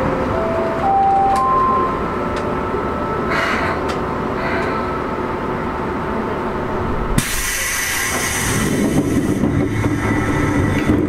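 Seibu 2000 series electric train running, heard from inside the car: a steady rumble of wheels and motors. In the first two seconds a short series of tones steps upward in pitch, and about seven seconds in a sudden hiss sets in and continues.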